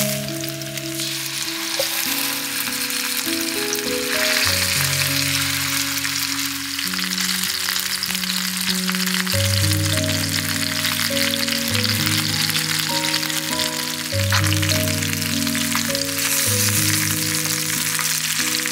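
Chicken drumsticks frying in oil in a pan: a steady sizzle with fine crackles, over background music of slow sustained notes.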